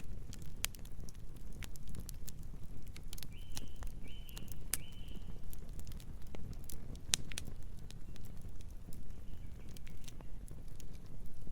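Campfire burning with a steady low rumble and irregular sharp crackles and pops of burning wood. Three short high chirps come about three to five seconds in.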